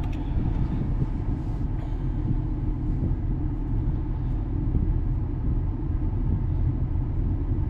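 Ford F-450 Super Duty's 6.7-litre Power Stroke V8 turbo-diesel running steadily while it performs a forced diesel particulate filter regeneration commanded from a scan tool.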